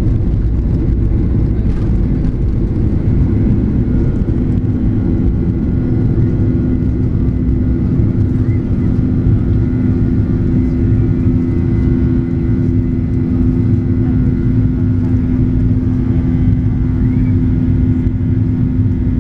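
Boeing 737 jet airliner during takeoff or climb: the engines and airflow make a steady, loud low rumble with a constant droning hum that does not change pitch.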